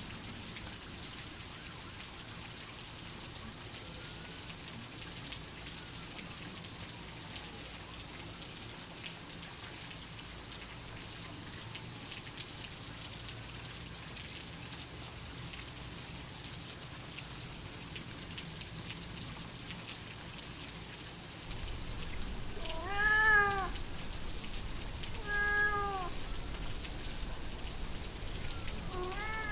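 Steady rain patter with a domestic cat meowing over it near the end: three meows, the first, a rising-then-falling call, the loudest. A low rumble joins the rain a little before the meows.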